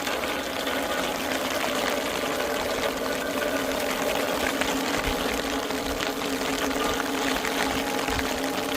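Heavy rain pouring down in a steady dense hiss, with a steady low hum underneath.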